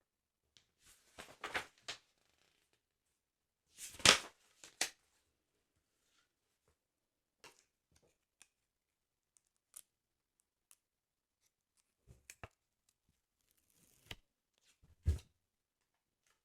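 Close-up handling of a sticker album's paper pages and stickers: scattered rustles and light taps, with a louder rustle about four seconds in and a tap with a soft thud near the end.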